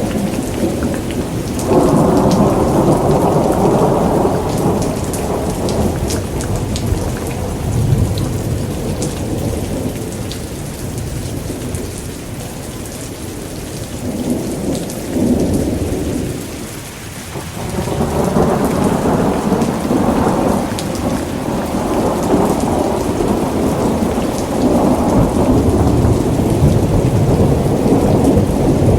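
Steady rain with rolling thunder: long low rumbles swell about two seconds in, fade to a lull in the middle, and build again over the last third.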